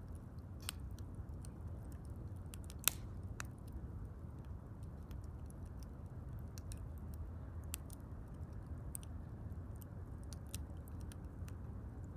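Wood bonfire crackling: a steady low rush with frequent small, sharp pops, one louder pop about three seconds in.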